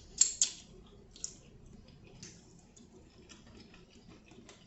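Close-miked eating sounds: a few sharp, wet mouth smacks and clicks in the first second or so, then softer scattered chewing clicks.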